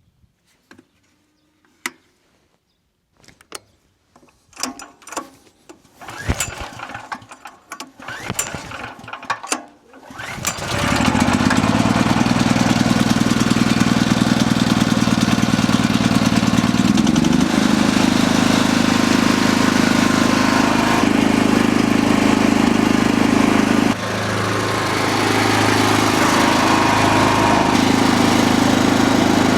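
Clattering knocks as a portable generator is handled, then its small engine starts about a third of the way in and runs steadily, with a brief dip in level later on.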